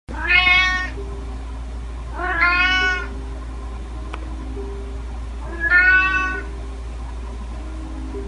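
Domestic cat meowing three times, short calls about two and three seconds apart, over a steady low hum.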